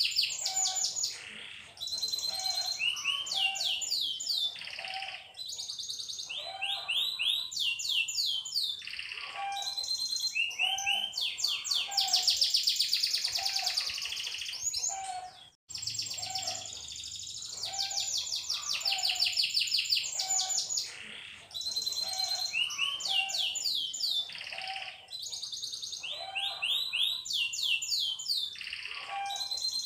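Canary singing long trilled rolls: fast runs of repeated rising notes in phrases of a second or two, with some lower notes mixed in. The song breaks off briefly about halfway through.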